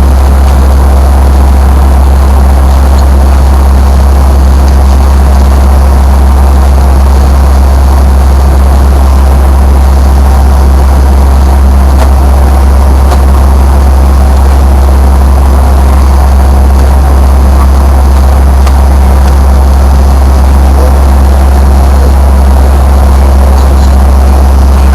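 Steady, loud cabin noise of a Fokker 100 jetliner: a deep, unchanging rumble of its rear-mounted Rolls-Royce Tay turbofans and the airflow, as heard from a window seat near the engines.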